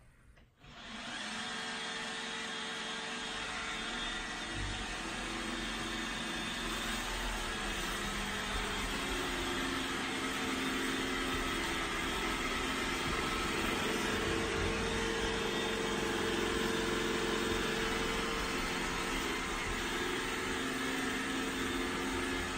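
Roomba i7+ robot vacuum running: a steady whir from its motor and brushes that starts about a second in, with a few hum tones that shift in pitch as it moves.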